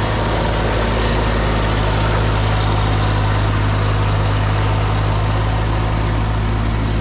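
Massey Ferguson tractor engine running steadily with a constant low hum while driving the snowblower through fluffy snow.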